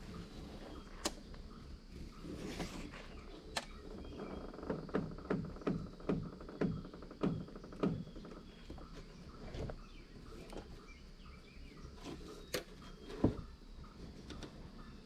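A rope being worked and pulled tight to tie a canoe down at the front: a series of short rubbing pulls, one or two a second, in the middle, with scattered clicks and knocks.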